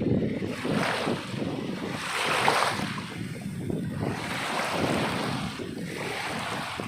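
Sea waves washing in, in repeated surges of hiss every second or two, over a steady low rumble of wind on the microphone.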